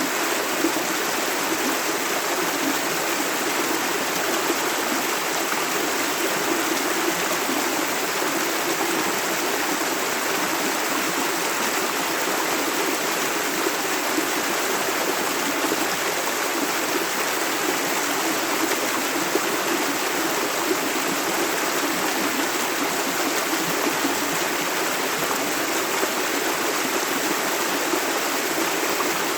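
Steady running water of a clear river or stream flowing over stones.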